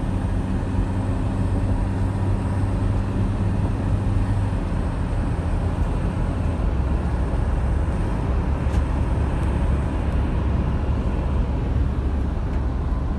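Motorhome driving on the expressway: a steady engine and road drone, with the engine note stepping lower about four and a half seconds in.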